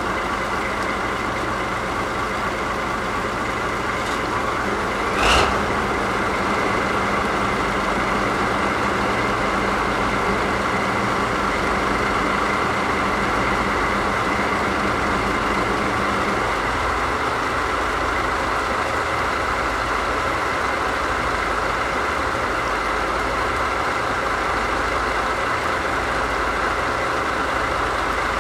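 DD51 diesel-hydraulic locomotive's twin V12 diesel engines idling steadily. A brief loud sharp burst about five seconds in, and a low steady hum that joins about then and stops about sixteen seconds in.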